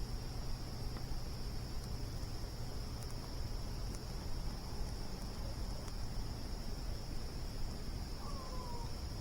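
Steady high-pitched cricket chorus over a low rumble, with a few faint crackles from a campfire. A brief falling chirp near the end.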